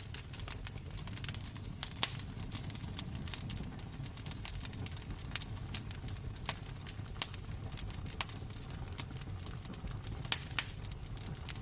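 Wood fire crackling in a fireplace: irregular small crackles and snaps over a steady low rumble of the flames, with a few sharper pops about two seconds in and twice near the end.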